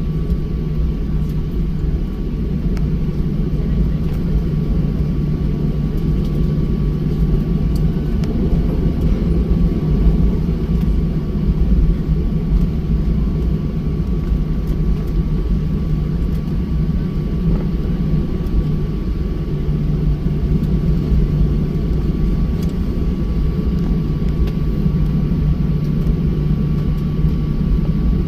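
Steady jet roar inside the cabin of a Boeing 737-800, from its CFM56-7B engines: a dense low rumble with a thin steady whine above it.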